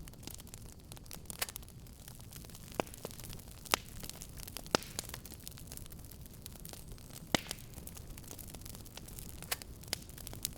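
Wood fire in a fireplace crackling: a steady run of small snaps and pops over a low rumble of flames, with a few sharper, louder pops about four and five seconds in and again past seven seconds.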